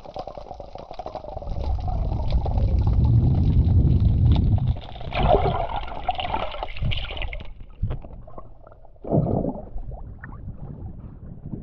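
Sea water sloshing and gurgling close to the microphone, swelling into a loud low rush a couple of seconds in, followed by a splash around five seconds in and another shorter one near nine seconds.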